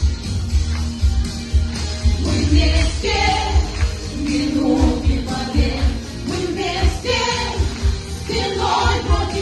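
A group of voices singing a pop song in unison over a backing track with a strong, steady bass beat.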